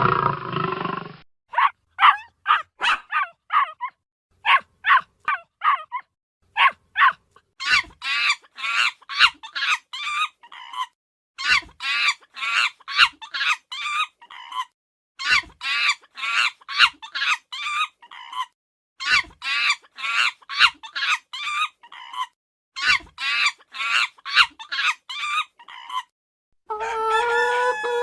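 The end of a big cat's roar, then many short, rapid animal calls in quick runs of five to eight, run after run with brief pauses. Near the end a rooster starts crowing.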